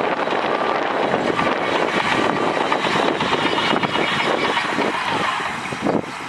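Heavy diesel earthmoving machinery working: a dense, loud engine noise with some short knocks, easing off just before the end.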